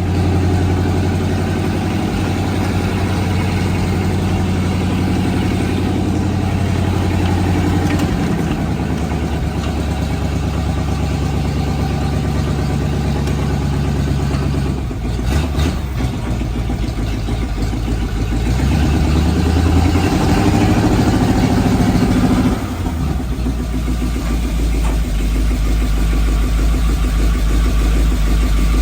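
Loyd Carrier's 85 hp Ford flathead V8 catching right at the start and then running, its speed rising and falling a few times as it is revved: a brief dip about halfway, a rise to higher revs a few seconds later, then a drop back to a lower, steady run.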